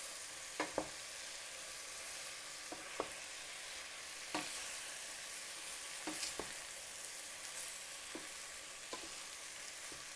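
Vegetables, the chopped fava bean pods, sizzling in hot oil in a pot with the sautéed onion and prosciutto. There are about eight sharp knocks as they are stirred.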